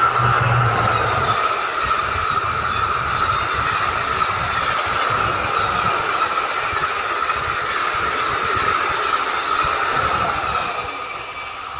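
Train passing close by: steady rolling noise of wheels on rail with a high, steady squeal, easing off near the end.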